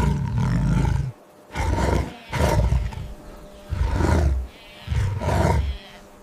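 An animal giving a series of deep, low roars, about five calls each lasting half a second to a second, with short pauses between.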